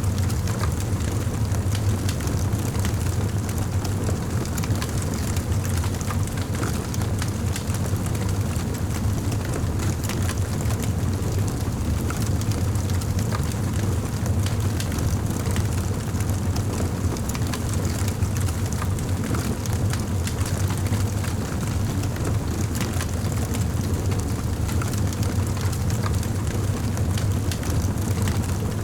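Fireplace fire crackling: scattered small pops and snaps over a steady low rumble.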